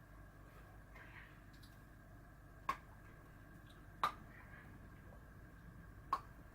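Three sharp snaps of a chocolate bar being bitten off in chunks, irregularly spaced, over a faint steady hum.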